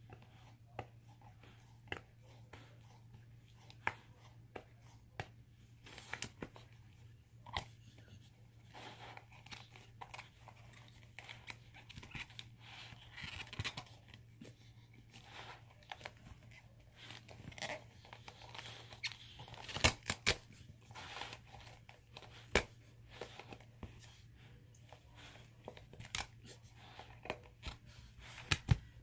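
A dog chewing and tearing apart a toy: irregular crunches, rips and sharp clicks, with a steady low hum underneath.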